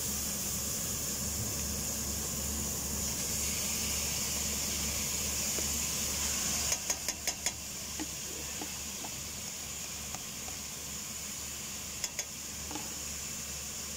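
Chopped onion and garlic sizzling in olive oil in a stainless steel pot. About seven seconds in, a quick run of knocks as raw chicken pieces are tipped in from a plastic container, with a couple more taps near the end; the sizzle is a little quieter once the chicken is in.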